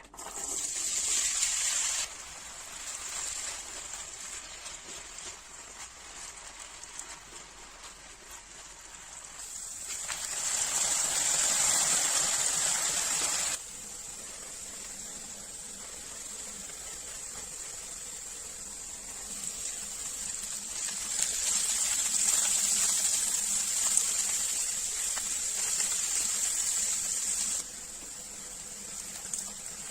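Water running steadily, swelling louder three times, briefly at the start, for a few seconds in the middle and for several seconds near the end, each time cutting off abruptly.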